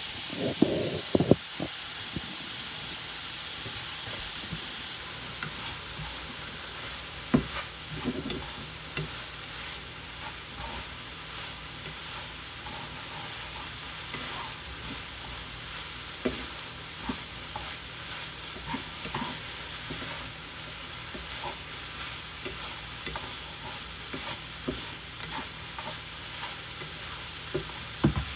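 Cauliflower fried rice sizzling in a pan as it is stirred: a steady frying hiss with scattered knocks and scrapes of the utensil against the pan.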